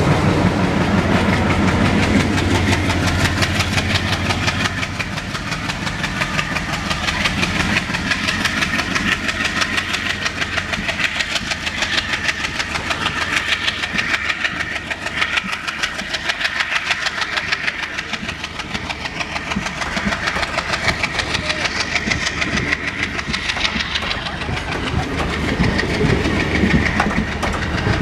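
WDM3D diesel locomotive (ALCO 251 sixteen-cylinder engine) running under power as it pulls away past, its low engine note strong for the first few seconds. Then the passenger coaches roll by, with a steady, fast clickety-clack of wheels over rail joints.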